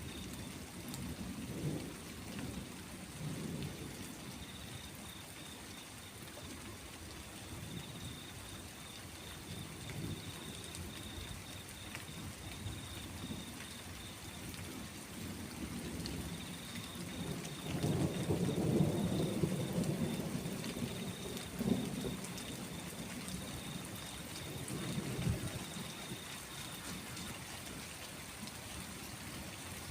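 Steady rain falling, with rolling thunder rumbling low underneath; the loudest roll comes a little past halfway and fades after a few seconds, with smaller rumbles before and after.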